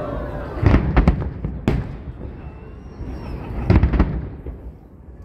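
Aerial fireworks bursting in groups of sharp bangs: a cluster about a second in, another near two seconds, and a third just before four seconds. A faint whistle sounds between the bursts.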